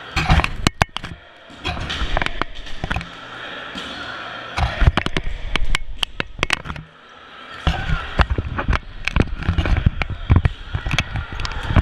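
Dodgeballs being thrown, bouncing on a gym floor and smacking into players, in three busy flurries of sharp hits, with players' shouts among them.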